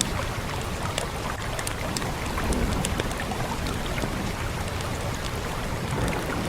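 Fire crackling, with sharp pops scattered irregularly over a steady rushing of rain.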